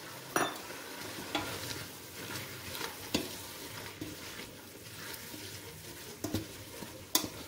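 Spinach, lettuce and herbs sizzling in hot olive oil in a stainless steel pot as they are stirred with a wooden spoon: a steady hiss with scattered knocks of the spoon against the pot.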